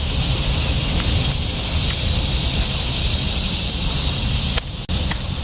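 Steady outdoor noise: insects keep up a constant high-pitched drone over a loud rushing rumble, most likely wind on the microphone. The sound briefly drops out about four and a half seconds in.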